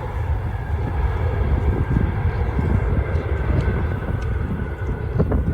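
Jet engines of a landing Boeing 777 airliner: a deep, continuous rumble with a faint high whine over it.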